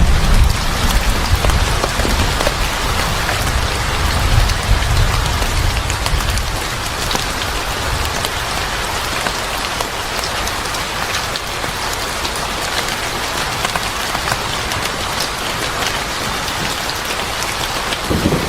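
Steady rain falling, with a low rumble of thunder underneath that dies away about six seconds in.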